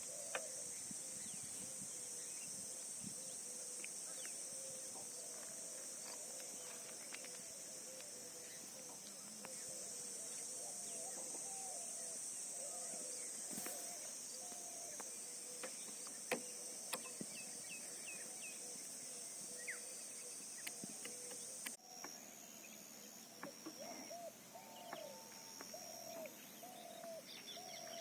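Faint rural outdoor ambience with birds calling in short repeated notes and scattered small clicks. A steady high-pitched drone runs underneath and cuts off suddenly about three-quarters of the way through.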